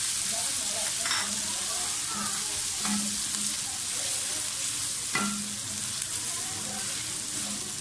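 Whole spices (bay leaves, cinnamon stick, black peppercorns) sizzling in hot ghee with fried onions, stirred with a silicone spatula that scrapes around the metal pan, with a steady frying hiss. The spatula knocks against the pan twice, about a second in and about five seconds in.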